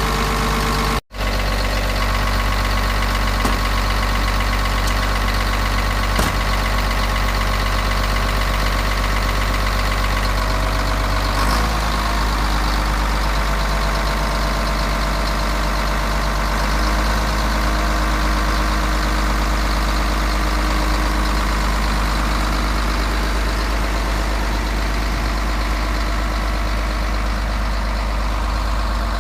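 Caterpillar 140G motor grader's direct-injection diesel engine idling steadily, with a brief dropout in the sound about a second in.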